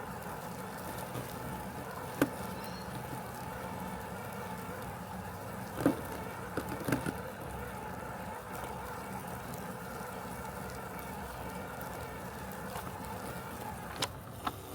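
Robotic lawn mower running with a steady mechanical hum, with a few sharp clicks or knocks about 2 s in, around 6 to 7 s, and twice near the end.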